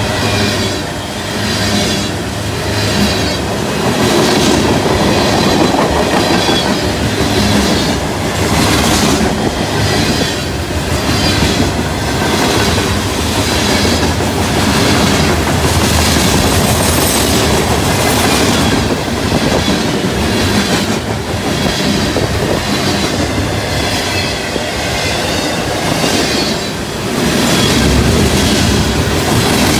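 Loaded freight cars (covered hoppers and tank cars) rolling past close by: steel wheels clacking over the rail joints again and again over a continuous loud rumble and rattle of the cars.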